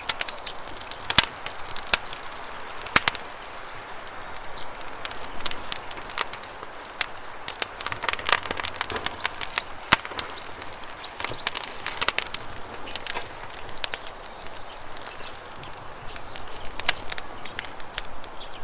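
Wood campfire crackling, with irregular sharp pops and snaps, over a steady rush of flowing river water.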